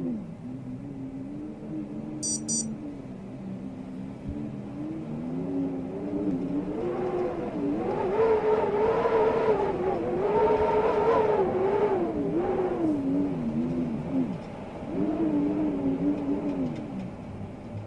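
Storm wind howling in wavering tones that rise and fall in pitch, swelling loudest through the middle, easing, then swelling again near the end.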